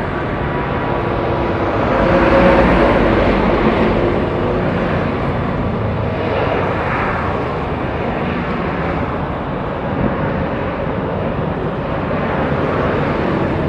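Boeing 737-800's CFM56-7B jet engines at takeoff power: a steady, loud jet noise with faint whine tones, swelling a couple of seconds in.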